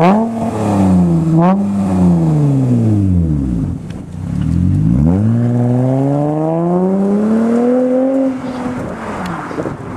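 Acura RL's V6 exhaust as the engine is revved: two quick blips, then the revs fall away. From about halfway the revs climb steadily for around three seconds and then drop off near the end.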